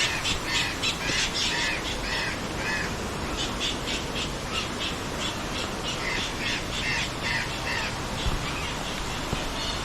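Birds calling in quick series of short, repeated calls, several a second, over a steady background hiss; the calls break off briefly about three seconds in and thin out near the end.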